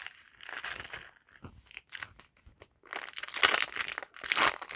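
Foil wrapper of a Yu-Gi-Oh! booster pack crinkling and tearing as the pack is opened, in irregular scratchy bursts that grow louder about three seconds in.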